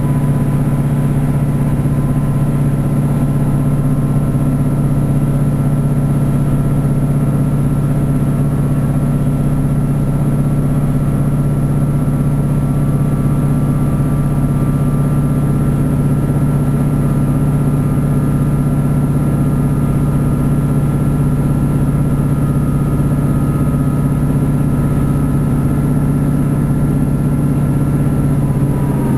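Class 150 Sprinter diesel multiple unit heard from inside the coach, its underfloor Cummins diesel engine running steadily under power with a constant low hum and a faint whine from the drive, as the train runs at speed.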